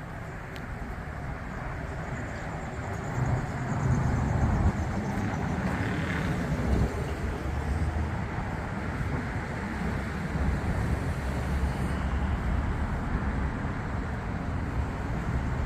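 Road traffic: a steady rumble of cars passing on the street, swelling as a vehicle goes by about four to six seconds in.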